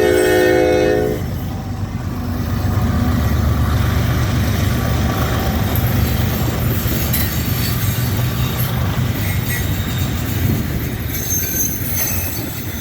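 Diesel freight locomotive horn sounding a chord that cuts off about a second in, followed by the steady low rumble of the passing diesel locomotives at the head of a loaded coal train, with wheel and rail noise.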